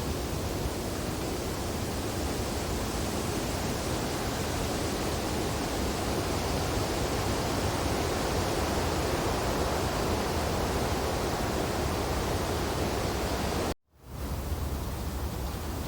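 Wind blowing through snowy tree branches: a steady, even rushing hiss. It cuts out for a split second near the end and quickly swells back.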